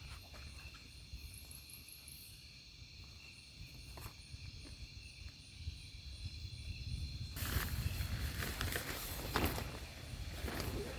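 Footsteps and rustling on the forest floor over a steady high-pitched insect drone, with a faint repeating chirp above it. The rustling grows much louder about seven seconds in.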